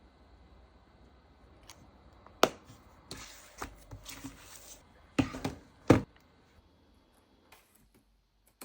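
Handling sounds in a quiet room: a sharp knock, then a stretch of rustling, then two more sharp knocks in quick succession.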